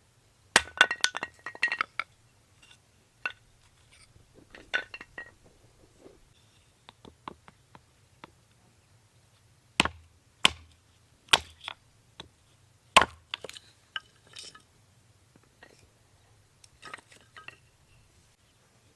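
Intermittent clinks and sharp knocks of cookware and utensils being handled. A quick run of ringing clinks comes near the start, and a few single sharp knocks come about ten to thirteen seconds in.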